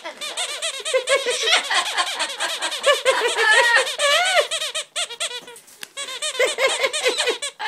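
Amazon parrot laughing in a long run of rapid, squeaky laugh-like pulses, with a short break about five seconds in.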